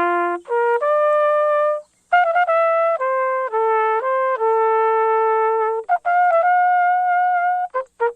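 Solo trumpet playing a slow melody of long held notes with a few quick short notes between them.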